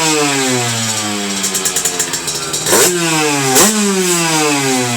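Fifty Top 50cc two-stroke moped engine running through a newly fitted Kaos aftermarket exhaust. The revs fall away from a throttle blip to an uneven idle in the middle, then the throttle is blipped sharply twice near the end, each time followed by a falling note.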